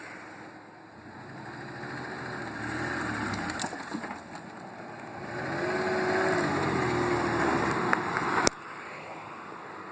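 Vehicle engine in four-wheel drive revving under load in two long surges, its pitch climbing and falling, then stopping abruptly near the end.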